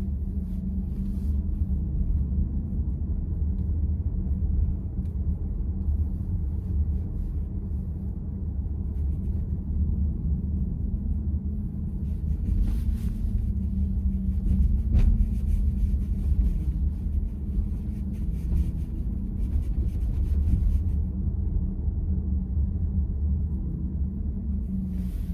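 Steady low road and tyre rumble inside the cabin of a moving Volkswagen ID.4 electric car, with one sharp tick about fifteen seconds in.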